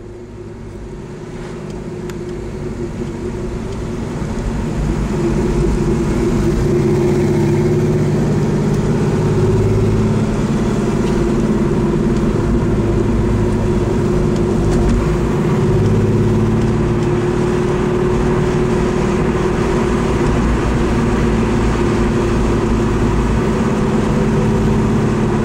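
Car engine running under load while driving, with a steady low hum; it grows louder over the first five seconds or so and then holds level.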